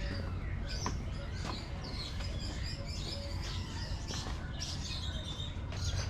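Small birds chirping repeatedly, many short calls in quick succession, over a steady low rumble.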